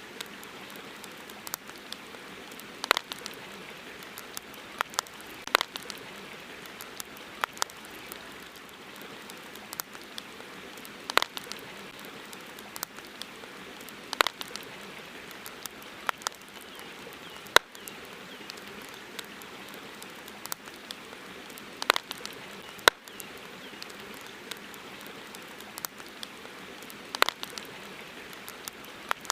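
Campfire crackling, with irregular sharp pops from the burning wood, some of them loud, over a steady hiss.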